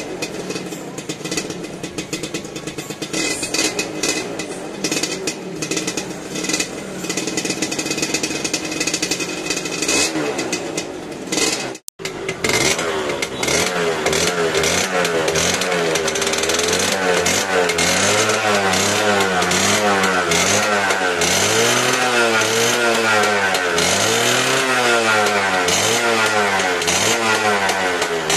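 Suzuki RGV120's two-stroke engine idling with a dense, rattly crackle. After a brief break about 12 s in, a second Suzuki two-stroke motorcycle engine is revved in repeated blips, its pitch rising and falling about once a second.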